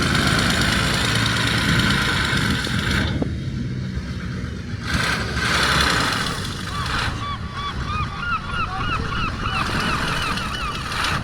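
A steady low rumble and wash of noise, then from about seven seconds in a flock of gulls calling in many quick, repeated rising-and-falling squawks.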